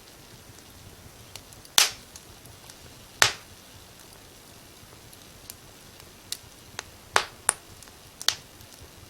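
Wood fire crackling: sharp pops at irregular intervals over a faint steady hiss, two loud ones early and a quick cluster of several near the end.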